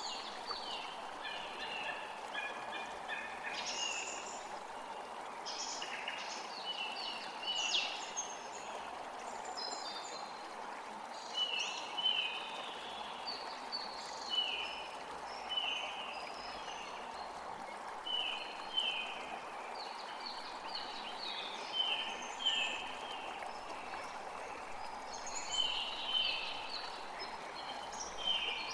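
Songbirds singing, many short falling notes repeated in quick runs, over the steady rush of running water.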